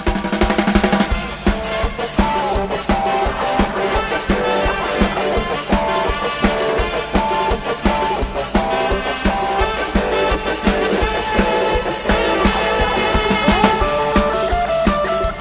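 A live band playing an instrumental passage: a drum kit keeping a steady beat under a guitar and melody line.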